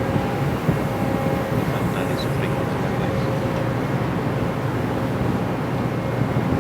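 Steady low drone of a boat's engine running, with two faint steady tones above it.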